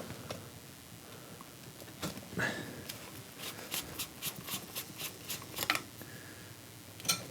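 Faint clicks and rustling of small objects being handled, with a quick run of light clicks in the middle.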